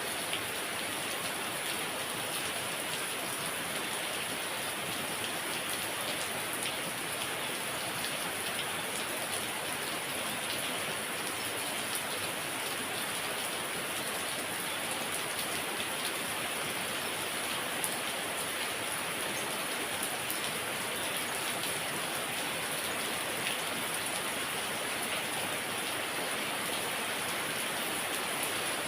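Heavy rain falling steadily, a dense, even hiss with scattered drops spattering on surfaces.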